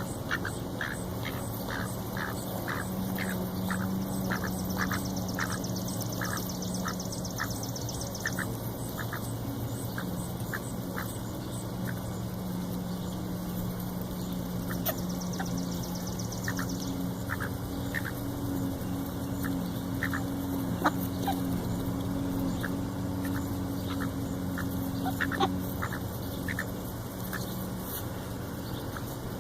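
Ducks quacking: a quick run of short calls, two or three a second, that thins out to scattered quacks later, over a steady low hum.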